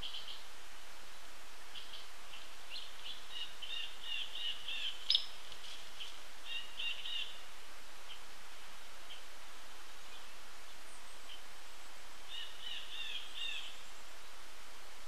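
Wild birds calling: short runs of rapid, high chirps come three times over a steady outdoor hiss. One sharp click comes about five seconds in.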